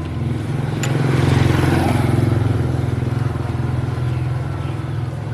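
A small engine running steadily, growing louder about a second in and then easing off.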